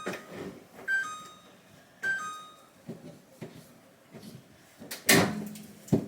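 An electronic two-note beep, a higher note then a lower one, sounds three times about a second apart. Around it are knocks and rubbing from handling, and a loud clatter comes about five seconds in.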